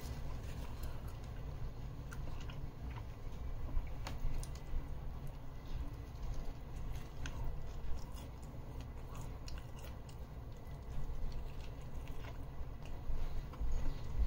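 Close-up chewing of a peri peri chicken pita wrap, with scattered small clicks and crunches.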